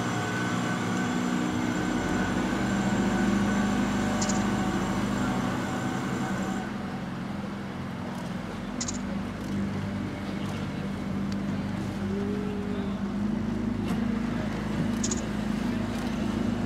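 Tour boat's compressed-natural-gas engine running steadily as a low hum, with a few short, high clicks.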